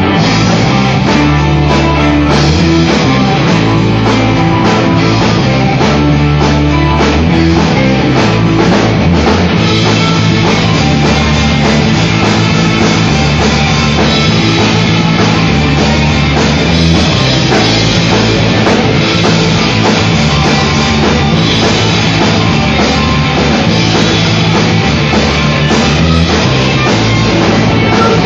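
Loud rock music played by a band with drum kit, electric guitar and bass.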